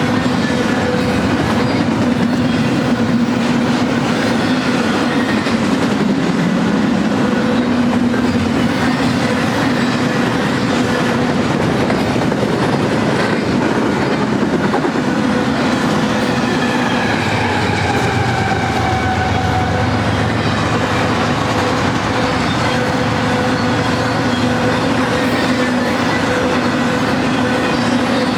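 BNSF freight train cars rolling past: a steady, loud rumble of steel wheels on rail, with a few faint tones that slide in pitch midway through.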